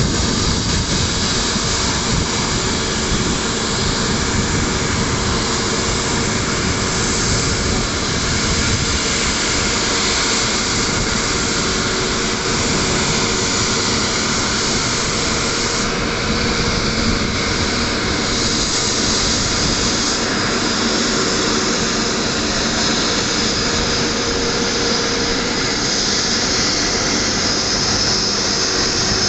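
Airliner jet engines running as the aircraft taxi, a loud, steady rushing noise with a constant whine.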